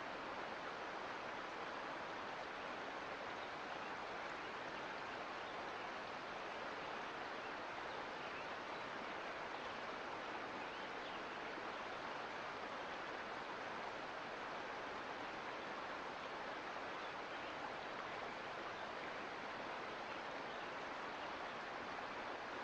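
Sierra Nevada mountain creek flowing: a steady, even rush of running water.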